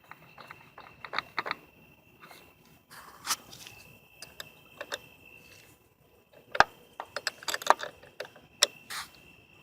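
Hand tool clicking and clinking on a loose car battery terminal clamp as it is tightened, in irregular bursts, with a faint steady high tone behind. The loose terminal is the cause of the car's intermittent no-crank, no-dash-lights fault.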